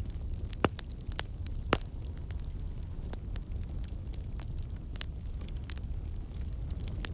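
Wood fire burning in a fireplace: a steady low rumble of flames with scattered sharp crackles and pops, two loud pops in the first two seconds.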